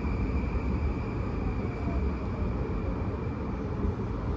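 Running noise inside a moving JR Sobu Rapid Line electric commuter train: a steady rumble of wheels and running gear on the track, with a thin, steady high whine above it.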